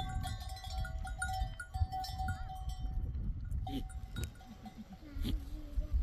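Bells on a flock of sheep and goats clinking again and again for about three seconds, then a short bleat near the end.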